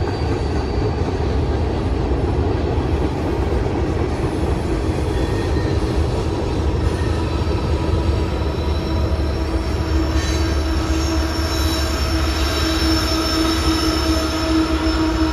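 Freight train rolling past with a steady rumble of wheels on rail. Steady wheel squeal grows stronger in the second half.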